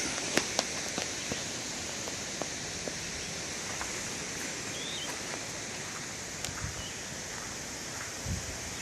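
Steady outdoor background hiss, like wind or rustling, with a few light clicks in the first second or so and faint short chirps midway.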